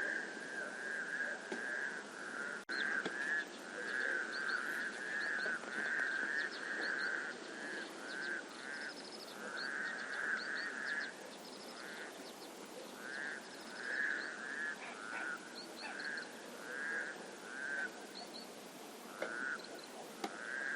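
A chorus of frogs croaking: many short, rattling calls overlapping one after another with hardly a break, with faint high chirps of birds above them.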